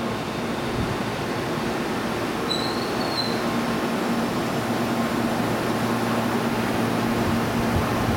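Tobu 30000 series electric commuter train pulling into the platform and slowing to a stop, running steadily with a short high squeal about two and a half seconds in.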